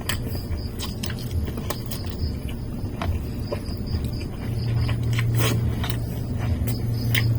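Close-up eating sounds of fried chicken and chopsuey: chewing and short mouth and utensil clicks, scattered irregularly. A steady low hum lies underneath and gets louder about halfway through.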